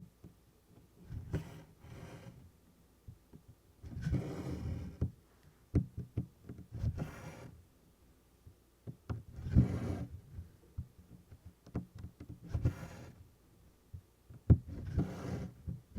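DMC cotton floss being drawn through 24-count Congress cloth while tent stitching: a soft swish every two to three seconds, with small ticks of the needle piercing the canvas in between.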